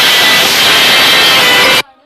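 Loud, steady hiss that cuts off abruptly near the end.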